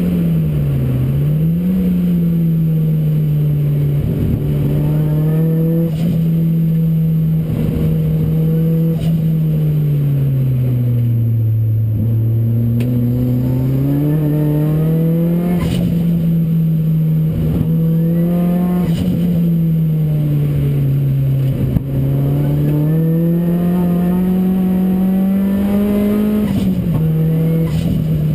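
Ford Racing Puma's modified Ford Focus RS engine driven hard, its note rising in pitch as it accelerates and dropping back several times, with a few sharp clicks over the top.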